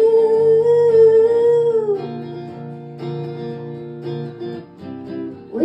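Live song with a woman's held sung note that slides down and ends about two seconds in, followed by guitar chords strummed alone.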